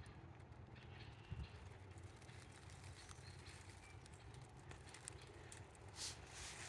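Quiet woodland ambience: faint, scattered bird chirps over a low rumble, with a crunch of a footstep in dry leaves near the end.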